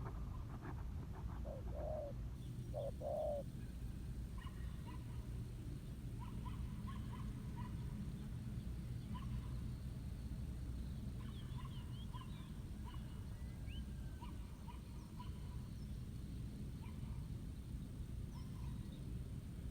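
Spotted dove cooing twice, two low notes a little over a second apart, about two seconds in. Small birds then chirp faintly and repeatedly over a steady low rumble.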